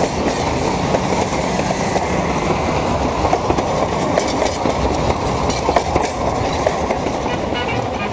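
A train passing close by, its wheels running on the rails: a steady rumble with scattered clicks.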